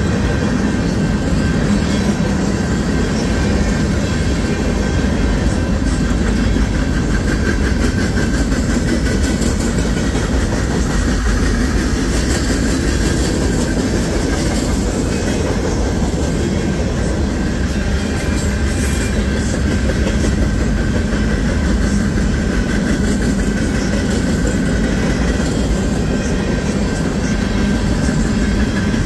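Cars of a mixed manifest freight train, hoppers, boxcars and flatcars, rolling steadily past with their wheels running over the rails.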